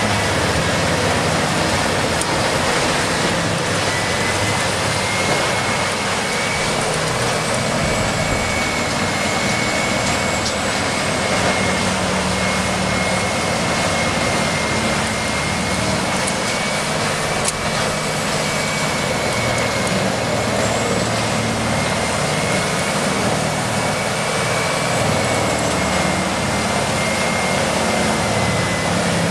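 Heavy machinery running steadily under power: a loud, unbroken mechanical noise with a constant high whine.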